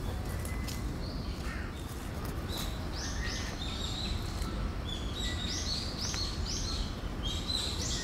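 Birds chirping in short high notes, which come in quick series from about three seconds in, over a steady low background rumble.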